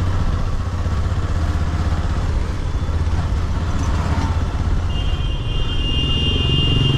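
Motorcycle running along the road with a steady low rumble of engine and road noise. About five seconds in, a vehicle horn sounds and is held.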